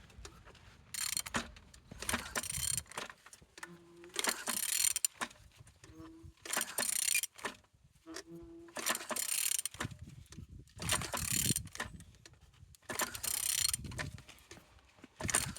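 Used engine being turned over by hand, with repeated strokes of mechanical clicking and scraping about every two seconds. The engine turns freely and is not seized.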